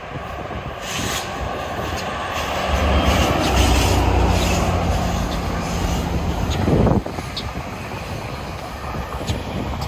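GO Transit commuter train passing: the diesel locomotive's engine drone builds and is loudest for a few seconds, then drops off suddenly about seven seconds in, leaving the quieter rumble of the bilevel coaches rolling by.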